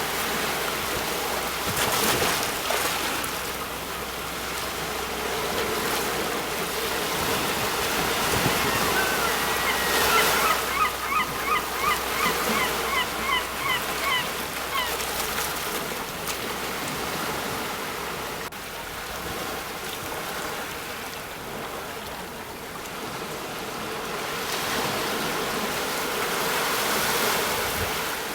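Sea waves breaking on a shore, a steady wash of surf that swells and ebbs. From about ten seconds in, a bird calls in a quick run of a dozen or so short, pitched notes lasting several seconds.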